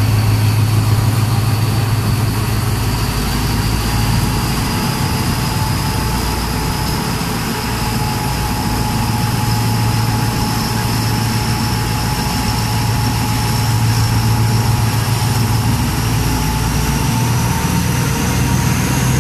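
Diesel train running slowly, heard through an open carriage window: a steady low engine hum with a thin high whine that slowly rises in pitch.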